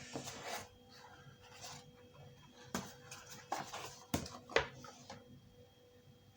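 Light clicks and taps from a plastic cowling piece being handled and checked, with a soft hiss near the start.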